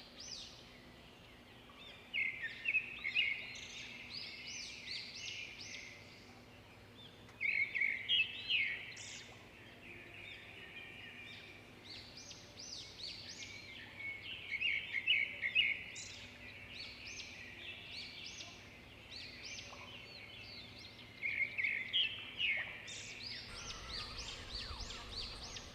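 A small songbird chirping in quick bouts of short, high notes, with pauses of a few seconds between bouts.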